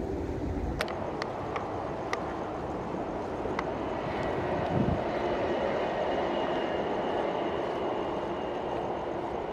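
MTR Q-train electric multiple unit running past at a distance: a steady rumble of wheels on track, with a few sharp clicks in the first few seconds and a faint high whine from about four seconds in.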